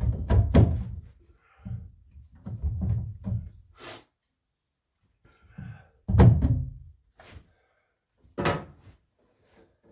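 A series of separate thunks and knocks, several of them heavy and with deep low end, like solid objects being handled and set down or a door being closed, with silent gaps between them.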